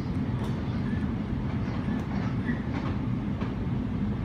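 Sydney suburban electric train running at speed, heard from inside the carriage. A steady low rumble of wheels on track, with a few faint clicks over rail joints.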